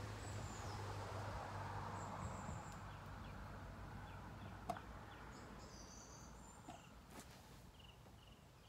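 Faint riverbank ambience: a soft hiss that slowly fades, with small birds chirping high and brief. Two small clicks, one about halfway through and one near the end.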